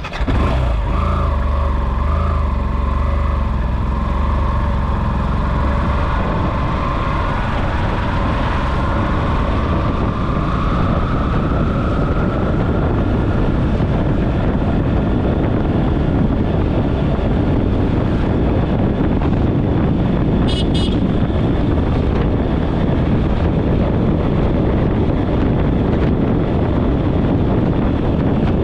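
Steady, loud rush of flood water pouring through the open gates of a dam spillway.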